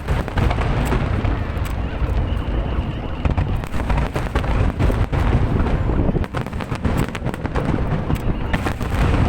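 Fireworks going off: many sharp bangs and crackles in quick succession over a steady low rumble.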